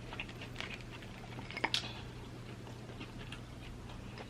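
Faint, scattered small wet clicks and squishes of food being handled and eaten: jalapeños and a cheesesteak sandwich. One click just under two seconds in is a little louder, over a steady low hum.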